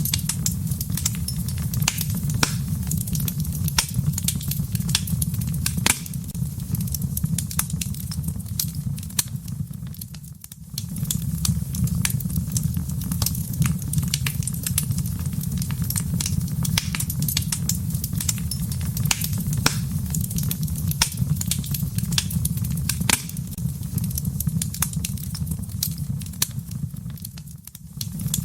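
Wood fire crackling in a fireplace: frequent sharp pops and snaps over a steady low rumble of the flames. The sound briefly dips twice, about ten seconds in and near the end.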